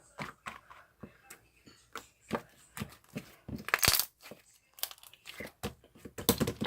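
Irregular clicks, taps and crinkling of objects being handled, with a louder cluster about four seconds in and another near the end.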